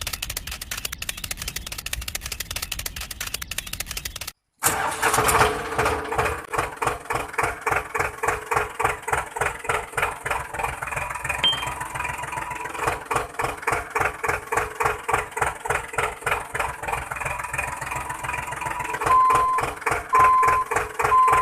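A diesel-tractor-like engine: a fast rattling start for about four seconds, then after a brief cut it runs with a steady chugging beat of a few pulses a second. Four short, even beeps sound near the end.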